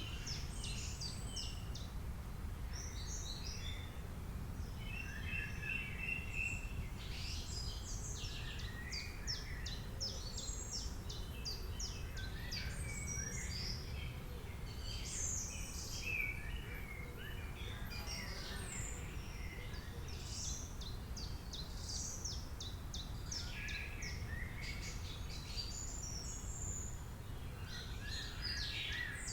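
Many birds chirping and trilling at once, with short repeated calls overlapping throughout, over a steady low rumble.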